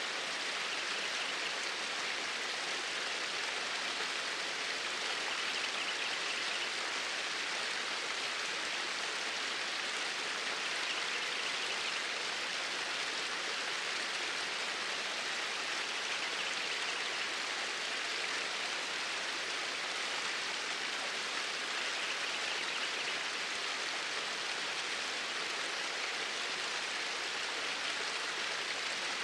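Flowing water, a steady even rush like a stream, with no change in level.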